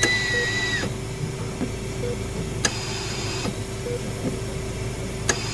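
Layered eerie hospital ambience: a steady hum with a short low beep repeating about every one and a half to two seconds. A high whistling tone fades out within the first second, and sharp clicks come about two and a half and five seconds in.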